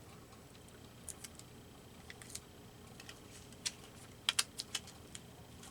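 Scattered light clicks and crackles of paper being handled on a collage page, with a quick cluster of them about four seconds in.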